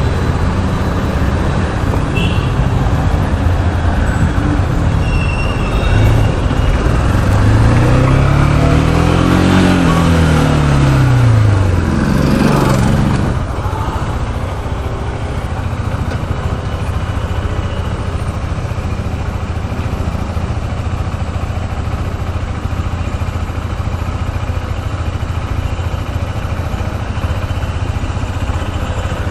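KTM RC 390's single-cylinder engine running on the move over steady wind and road noise. From about 7 s its note climbs and then falls back, loudest near 10 s, as the bike speeds up and eases off. After that it settles into steadier, quieter running.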